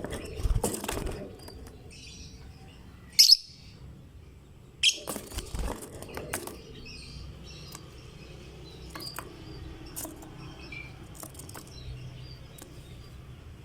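Lovebird chattering: two loud, shrill calls about three and five seconds in, then a run of softer chirps and clicks.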